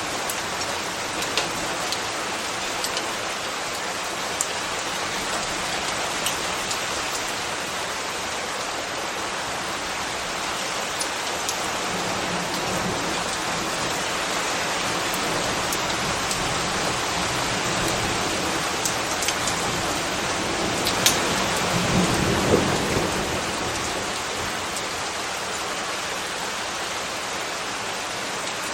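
Steady rain falling, with scattered sharp drip ticks on a hard surface. About three-quarters of the way through it swells briefly, with a low rumble and a few louder splashes.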